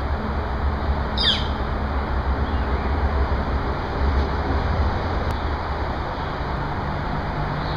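A bird gives one short downward-sweeping call about a second in, over a steady low rumble.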